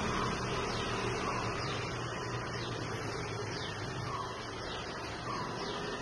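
A steady low hum with faint, short, falling bird chirps repeating every second or so.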